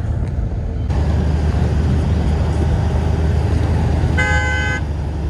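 Road traffic rumble with one vehicle horn toot about four seconds in, lasting about half a second.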